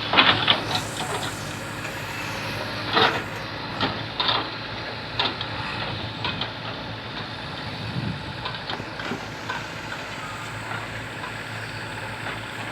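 A JCB backhoe loader's engine running steadily, with several sharp knocks and clanks over the first half.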